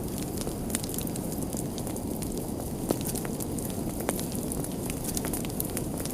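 Fire burning with a steady low rush, crackling with frequent sharp snaps and pops; one louder pop about three seconds in.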